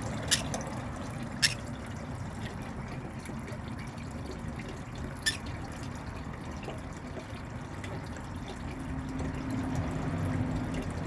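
Water trickling steadily, with three short sharp clicks: one near the start, one about a second and a half in, and one about five seconds in.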